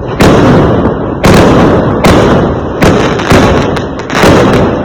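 Fireworks going off: about five sharp, loud bangs in quick succession, each trailing off in a long fading tail.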